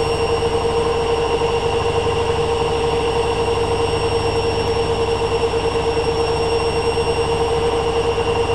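Hoover Dynamic Next washing machine spinning at high speed on its 1500 rpm spin programme: a steady, unwavering motor whine over a fast, even pulsing from the drum.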